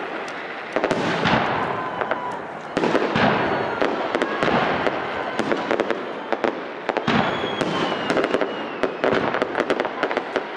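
Aerial fireworks salute: a loud shell burst about every two seconds, each trailing off in dense crackling, with faint whistles among them.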